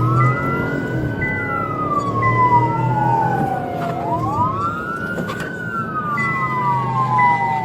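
Police car sirens wailing, two of them slightly out of step, each sweeping up quickly and falling slowly about every four seconds, over a low engine hum. A high steady tone sounds in repeated short stretches underneath.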